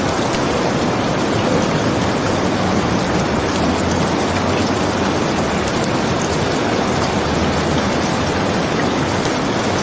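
Steady rain, a dense, even hiss that holds at one loud level throughout.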